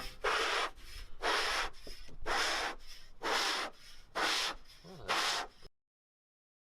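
Rhythmic rubbing or scraping strokes, about one a second, that cut off abruptly into dead silence a little over halfway through.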